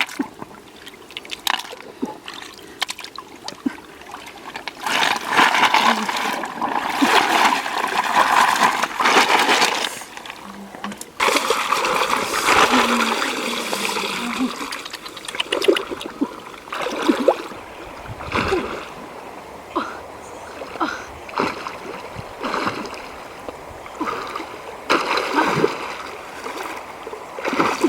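Water splashing and trickling in uneven stretches, with scattered short knocks and splashes in between.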